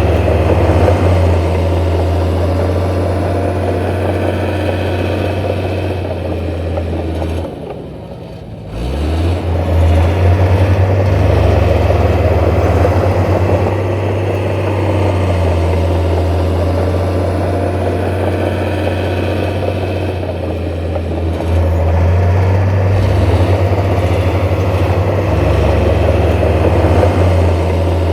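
Heavy diesel engine of an earthmoving machine running steadily with a deep, even note. About eight seconds in the sound drops off briefly, then the engine picks up again with a rising pitch.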